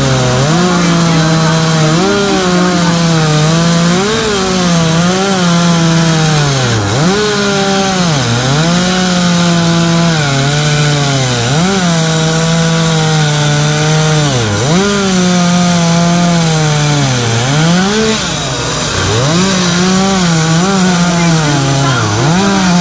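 A two-stroke chainsaw carving wood, running at high revs. Its engine note dips sharply every second or two as the chain bites into the wood, then recovers.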